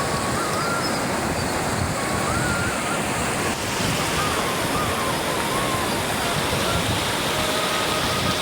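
Steady rushing noise of flowing water, with a faint wavering high tone that comes and goes over it.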